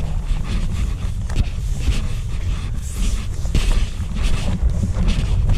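Storm wind gusting over the microphone: a heavy, unsteady rumble with rushing, rustling noise on top.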